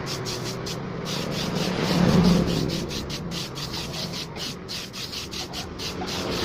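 Hand sanding: sandpaper rubbed back and forth over a surface in quick, even strokes, about four a second.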